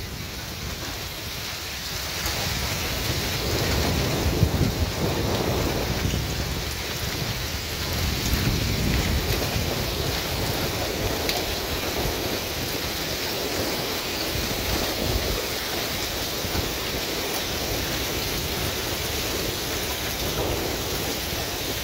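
Heavy rain mixed with hail pouring down on open ground: a steady hiss, with low rumbling that swells and fades in places during the first half.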